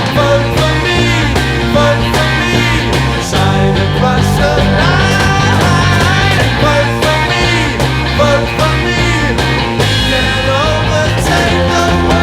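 1960s British psychedelic rock recording: a full band with drum kit, bass and electric guitar, with gliding pitched lead lines over a steady beat.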